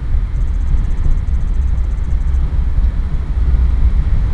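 Steady low rumble of a BNSF freight train rolling slowly away after its startup.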